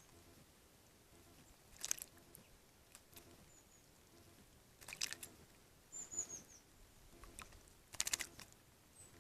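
Small songbirds bathing in a bird bath: three short bursts of splashing and wing-fluttering about three seconds apart, with a few brief high chirps in between.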